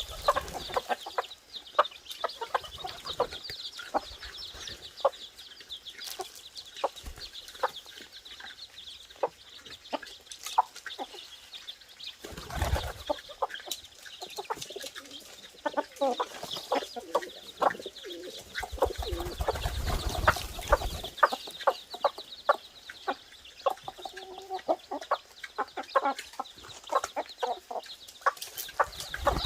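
Chickens clucking, over a steady high chirping, with many short sharp calls. Twice a low rumble of handling or movement cuts in, briefly about twelve seconds in and for a couple of seconds near twenty.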